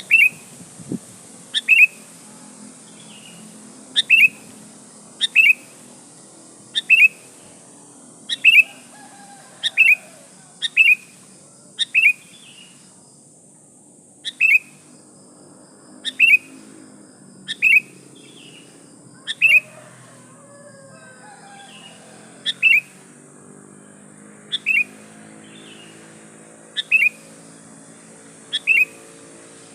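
Female sooty-headed bulbul giving short, sharp calls, repeated about every one to two seconds, each a quick falling note; this is the female's call to a male.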